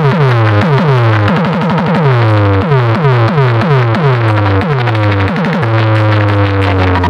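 Bass-heavy electronic dance music played loud through a DJ sound system. A rapid string of falling synth bass sweeps, roughly two a second, drops in pitch over and over, then settles into a held deep bass note near the end.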